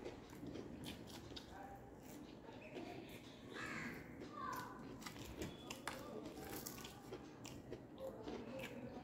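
Close-up chewing and crunching of a crispy battered fried pakora with rice, with many short wet mouth clicks.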